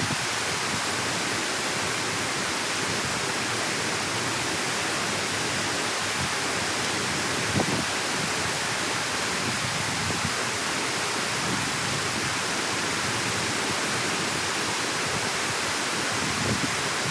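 Steady rush of water pouring through a dam that has been cleared of clogging plant growth, with one faint knock about seven and a half seconds in.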